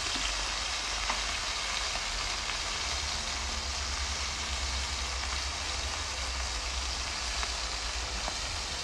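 Coated squid rings frying in a pan of hot oil: a steady sizzle with faint scattered crackles.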